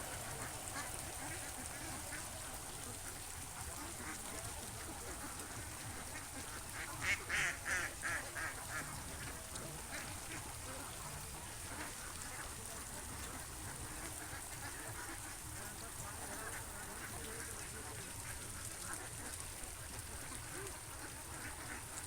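Ducks quacking: a quick run of about half a dozen loud quacks about seven seconds in, then fainter, scattered quacks over a steady background hiss.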